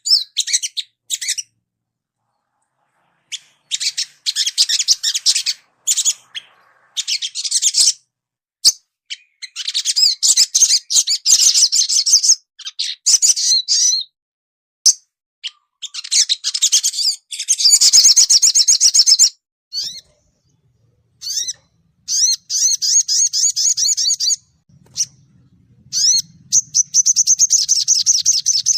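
Crimson sunbird (sogon) song: rapid, high-pitched twittering trills in bursts of one to three seconds, separated by short pauses.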